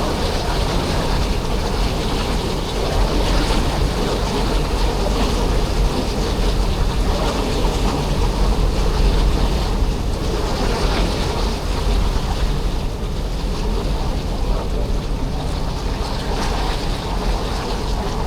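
Passenger ferry under way: a steady low engine rumble mixed with the wash of water along the hull.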